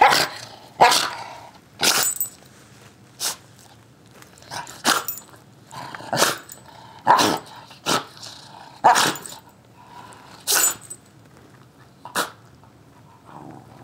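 A dog sneezing over and over, a dozen or so short sharp sneezes about a second or so apart, some with a brief snort or grumble in them. These are communicative sneezes aimed at a person, which the owner reads as disapproval.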